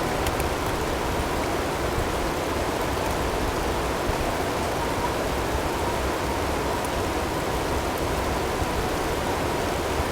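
Steady blizzard ambience: wind-driven snow and hail making an even rushing noise, with a few faint ticks. A faint steady high tone is blended in underneath.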